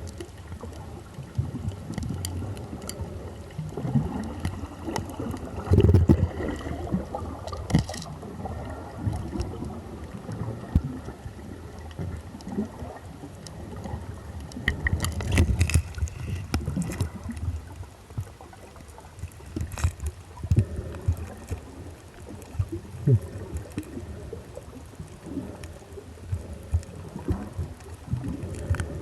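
Muffled water sloshing and gurgling with an uneven low rumble, broken by a few sharp clicks and knocks.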